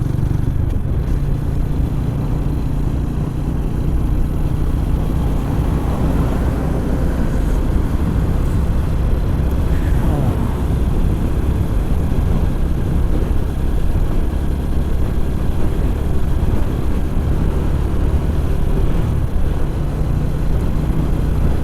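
Loncin GP 165cc motorcycle's single-cylinder engine running steadily under way, with a continuous rush of riding noise.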